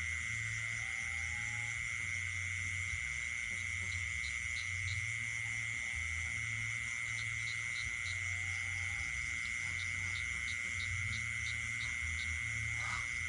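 Night chorus of insects and frogs: a steady, unbroken high insect trill, with low frog croaks pulsing in irregular bursts and short runs of quick high chirps every few seconds.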